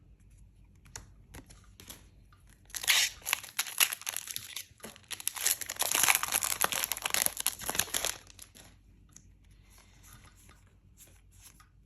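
A trading-card booster pack's wrapper being torn open and crinkled for about five seconds in the middle, with faint clicks of cards being handled before and after.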